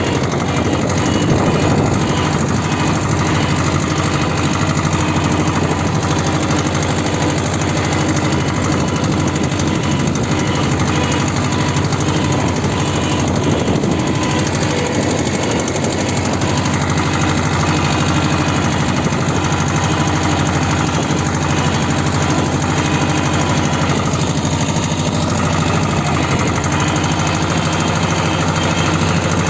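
T-25 tractor's air-cooled two-cylinder diesel engine running steadily at constant speed, warming up after a cold start.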